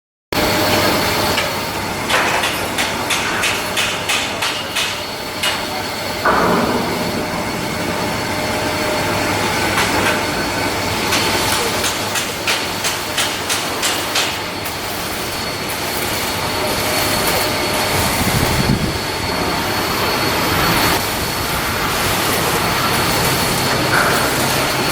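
Steel shipbuilding work: runs of sharp metal knocks, about two a second, over a steady machinery noise.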